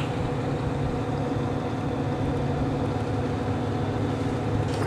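Steady hum of running air-conditioning equipment, holding one even pitch with several low tones throughout.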